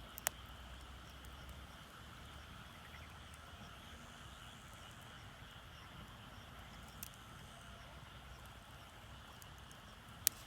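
Small wood fire in a shichirin crackling faintly, with three sharp pops: one just after the start, a softer one partway through, and one near the end. A faint, steady chorus of calling animals runs underneath.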